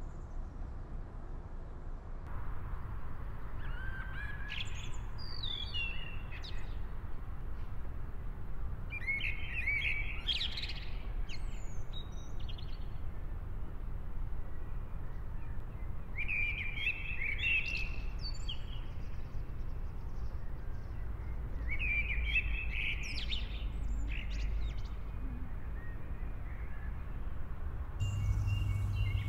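A songbird singing four short warbling phrases a few seconds apart, over a steady low background rumble.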